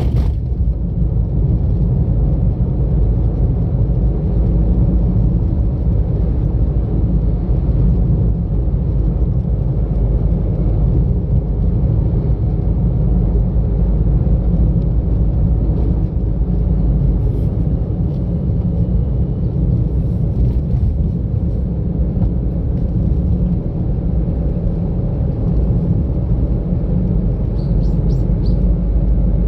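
Steady low rumble of a car being driven: engine and tyre road noise, with a short click right at the start.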